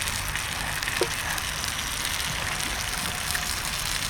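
Bonfire crackling with many small pops over a steady rushing background, with one slightly louder click about a second in.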